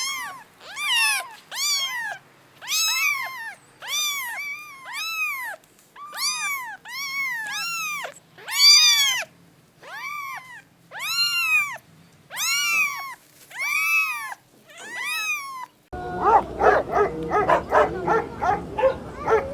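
Domestic cat meowing over and over: about twenty high, arching meows, each rising then falling, roughly one a second. Near the end it cuts to a denser, noisier run of short animal calls.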